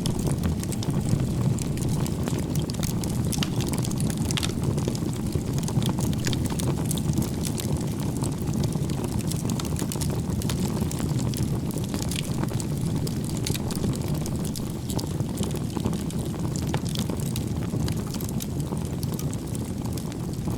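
Wood fire burning in a crib-stacked pile of firewood: a steady low rush of flames with frequent sharp crackles and pops.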